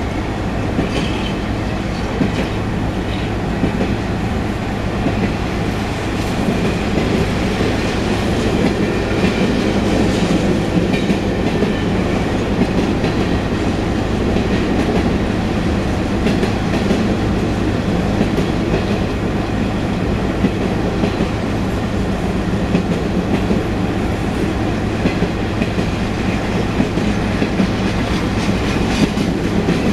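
Union Pacific mixed freight train's cars rolling past: a steady rumble of steel wheels on rail with scattered short clicks and clanks.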